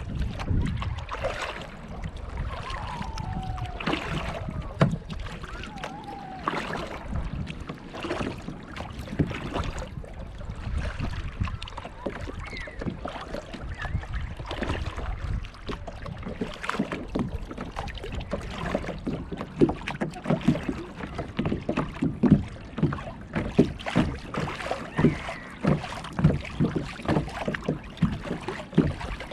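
Kayak paddling: the paddle dipping and splashing, and water slapping against the kayak's hull in a run of short knocks and splashes that grow stronger and more rhythmic in the second half.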